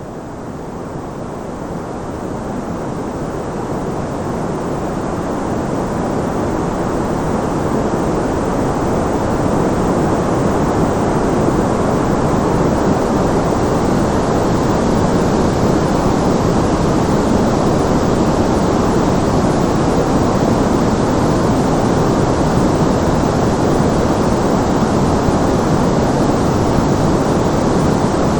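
Steady white noise, an even rushing hiss weighted toward the low and middle range, with no tones or clicks. It swells gradually over the first ten seconds or so, then holds level.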